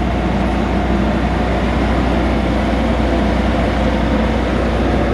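Steady, loud low rumble with a constant droning hum, like a running engine or motor.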